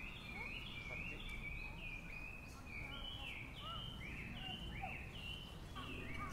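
Small birds chirping, a quick continuous series of short high notes, over steady low outdoor background noise.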